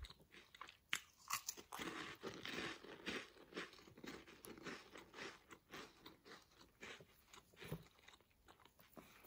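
Faint crunching and chewing of flaky, buttery yeast-dough cheese sticks, a string of small irregular crisp crackles as the pastry is chewed.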